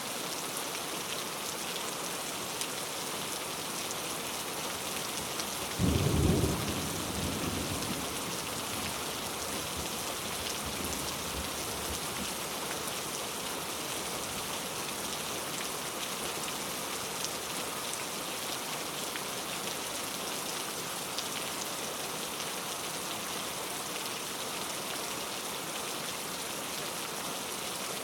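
Steady rain falling, with a single loud thunderclap about six seconds in that rumbles away over the next couple of seconds.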